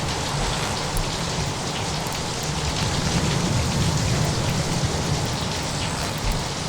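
Steady rain with a continuous low rumble underneath and scattered faint ticks, an unbroken storm ambience.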